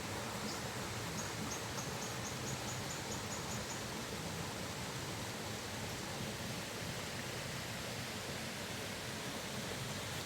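Waterfall water rushing in a steady, even roar. Between about one and four seconds in, a faint, high, quickening series of chirps sounds over it.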